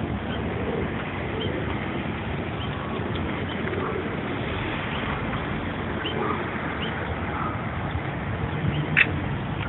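Steady outdoor background noise, with faint short bird chirps and a brief sharp sound about nine seconds in.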